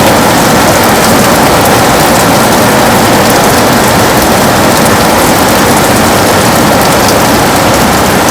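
Heavy rain pouring steadily onto a window, a loud, even hiss with fine patter of individual drops.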